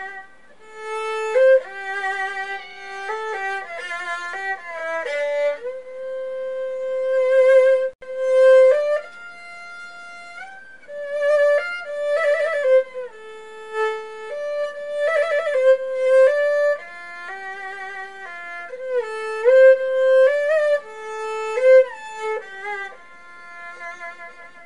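Background music: a violin melody played with vibrato.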